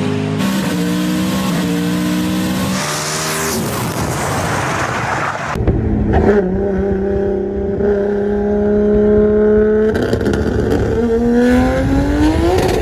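Racing car engine accelerating hard, its pitch stepping at the gear changes. About halfway in the sound cuts to another car held at high, steady revs, which drop and then climb again near the end.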